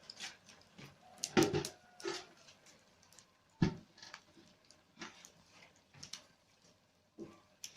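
Irregular knocks and clicks, as of objects being handled. The two loudest come about a second and a half in and just past three and a half seconds in.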